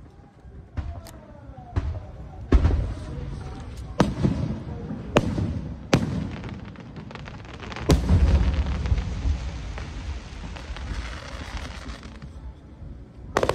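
Aerial firework shells bursting: a string of loud booms with sharp cracks, about a second or two apart, the biggest about eight seconds in. A long crackling shimmer follows it, then a quick cluster of cracks at the end.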